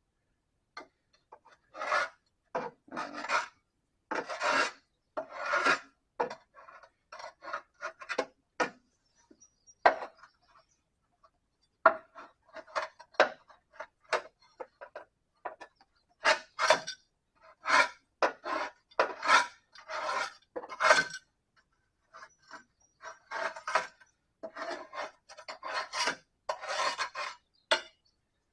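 Metal scraper scraping caked clover and grime off the underside of a mower deck, in dozens of short, irregular strokes with a couple of brief pauses.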